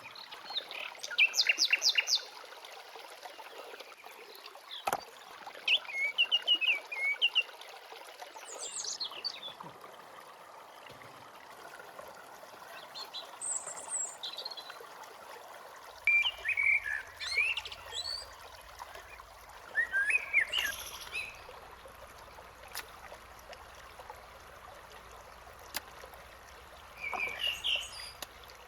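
Wild birds chirping and calling in short bursts every few seconds, over a faint steady hiss.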